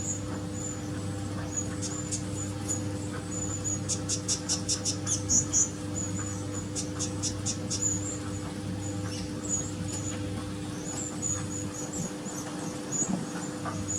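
Small birds calling: many short, high, thin chirps throughout, with a quick run of sharp chirps about four seconds in. A steady low hum runs underneath.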